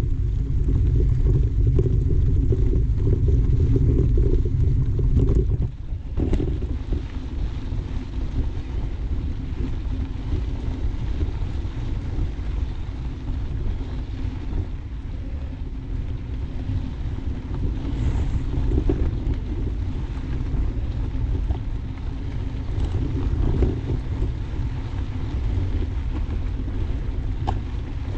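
Steady low rumble of riding a bike on a trail: wind buffeting the microphone and tyres rolling over the ground. It is louder for the first five seconds or so, then drops a little.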